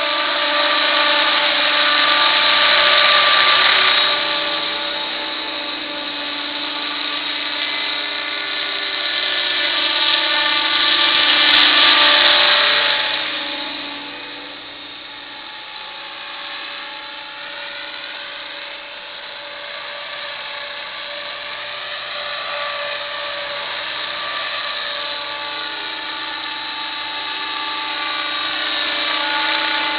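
Electric 50-size RC helicopter with full-metal Esmart mechanics in flight: a steady whine of motor, gears and rotor, wavering slightly in pitch. It swells louder twice, near the start and about twelve seconds in.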